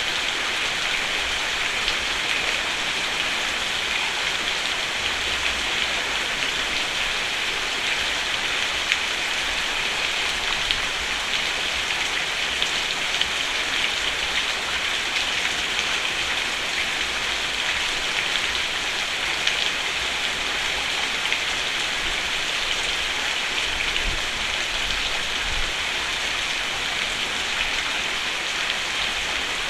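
Steady rain falling on a roof, a dense even patter with many small drop ticks and no thunder.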